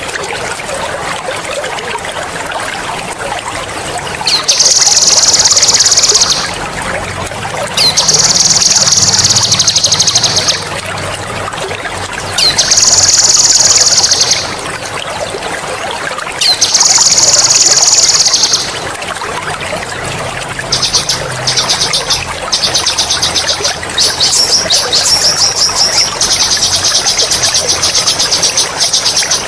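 A songbird singing loud, sharp rolling trills ('ngerol') over steadily trickling water. There are four long trills of about two seconds each, then from about two-thirds of the way in a faster, choppier run of trilling that does not stop.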